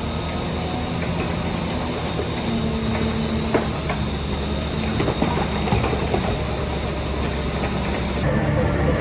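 Heavy earthmoving machinery running steadily: a low, even diesel engine note with a few scattered metallic knocks. A high hiss over it cuts off suddenly near the end.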